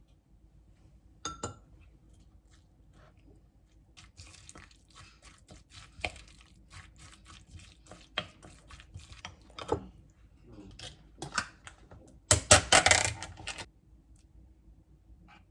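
Cutlery clinking against dishes in a string of sharp, scattered clinks, with a louder clatter lasting about a second near the end.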